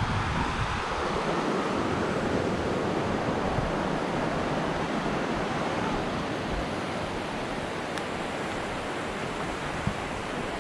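Steady rushing noise with a fluctuating low rumble underneath.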